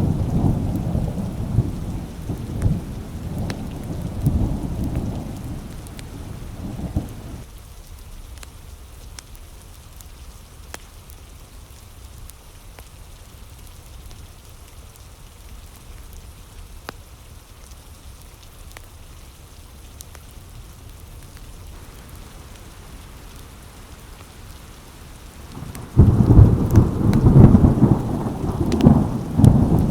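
Thunderstorm: a roll of thunder rumbles and fades over the first several seconds, leaving steady rain on the window glass with scattered sharp crackles. Near the end a new thunderclap breaks in suddenly and rumbles on.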